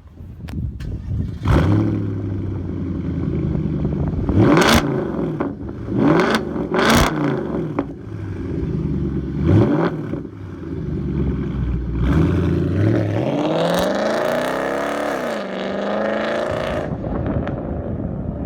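2010 Audi S5's 4.2 FSI V8 through a straight-piped exhaust, revved in several short blips with sharp cracks at some of them, then accelerating, its pitch climbing for a few seconds before dropping away near the end.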